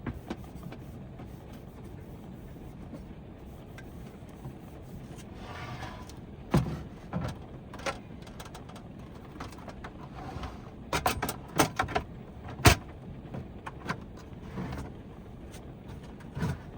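A steady low rumble with scattered sharp knocks and clicks, like objects or doors being handled in a vehicle, bunched in two groups with the loudest knock about three-quarters of the way through.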